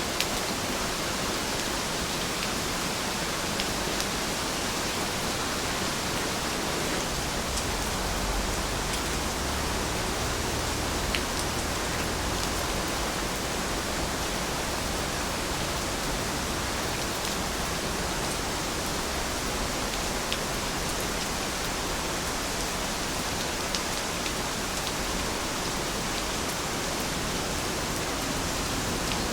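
Steady rainfall: an even hiss of rain with a few faint individual drop ticks scattered through it.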